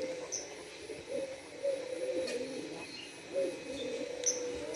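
Pigeons or doves cooing in repeated low, wavering phrases that overlap one another, with a short high chirp twice.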